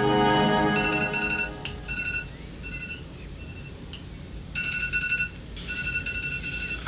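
Electronic alarm beeping: rapid high beeps in groups about a second long, with short pauses between them and a longer break around the middle.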